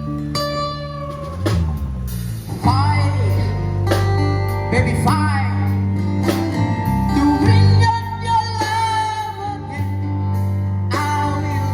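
A man singing with guitar accompaniment over a steady bass line, holding long notes with vibrato.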